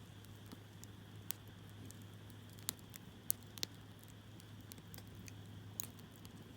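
Hardwood campfire burning in a fire stand: a soft steady hiss with scattered sharp crackles and pops from the burning logs, a handful of them louder than the rest.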